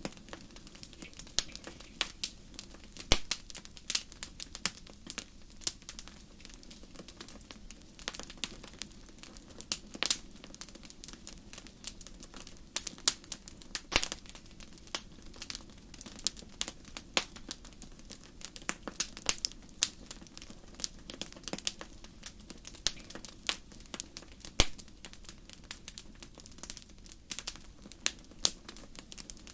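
Wood campfire crackling: irregular sharp pops and snaps, a few louder than the rest, over a soft steady low rush of the flames.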